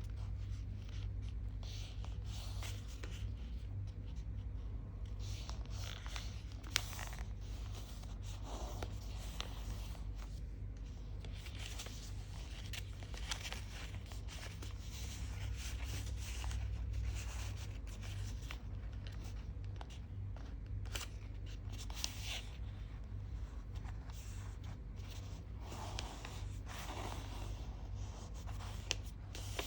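Sheet of paper being folded and creased by hand: scattered rustles and brief crinkles over a steady low hum.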